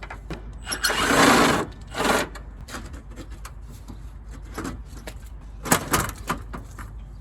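Hand-tool work on a Jeep Comanche body: two rough scraping passages, the longer about a second in, then a few sharp metallic clicks and knocks near the end.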